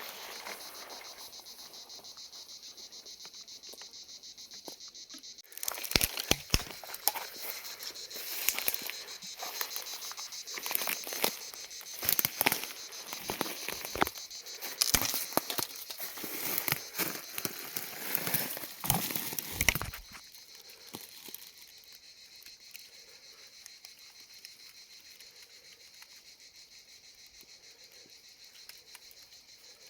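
Crickets chirping steadily in a dense, high, continuous trill. From about six seconds in to about twenty seconds, a loud run of irregular crackles and clicks sounds over it, then stops.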